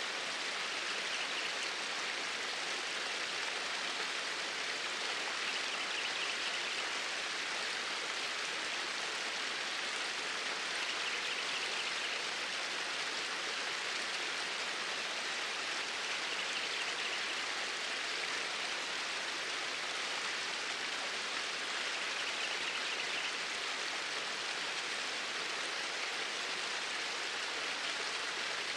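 Steady flowing water, a stream running with an even rushing hiss that holds at one level throughout.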